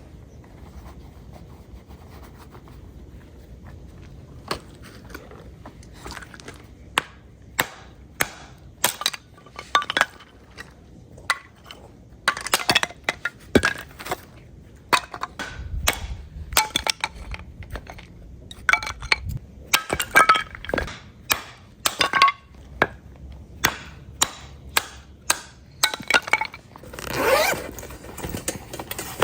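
Dishes and cookware clinking and knocking against each other as they are handled, a long run of sharp, irregular clinks with short ringing tails that starts a few seconds in and grows busier.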